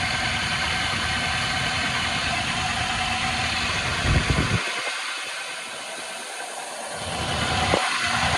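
Toyota 2UZ-FE 4.7-litre V8 running steadily at idle, heard from over the open engine bay.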